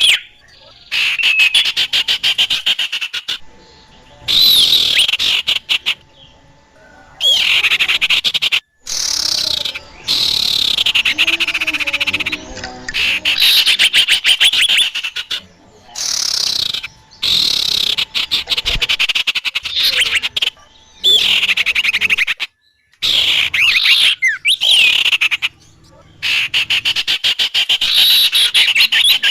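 Bird-lure recording of small birds calling: rapid rattling trills mixed with high chirps and short whistled glides. These come in repeated bursts a second or two long, separated by brief silences.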